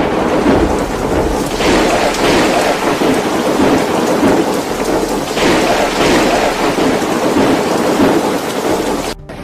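Violent windstorm with rain: a loud, steady rushing noise that swells and eases a little, then cuts off suddenly near the end.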